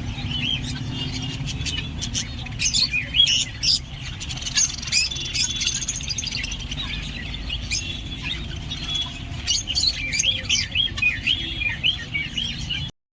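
Several small pet parrots kept as love birds chirping and squawking in quick overlapping calls, over a low steady rumble. The sound cuts off abruptly near the end.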